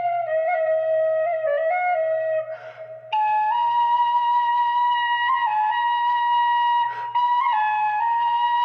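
Solo Celtic flute playing a slow melody, one clear note at a time. A short breath pause comes about two and a half seconds in, after which the tune jumps up and carries on higher, with another quick breath near the end.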